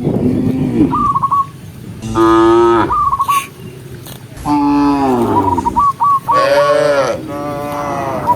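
Cows mooing: several long moos from the herd, the loudest about two seconds in and again about halfway through, each dropping in pitch. Between them come short runs of quick, high, repeated chirping notes.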